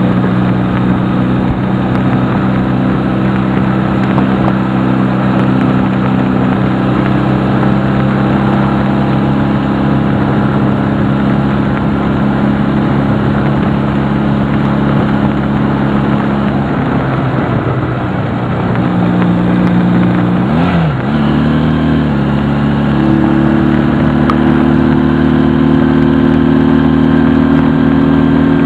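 Honda CD175 motorcycle's small four-stroke twin engine running under way at steady revs. About two-thirds of the way through the revs dip and swing briefly, then the engine settles to a steady, slightly higher note.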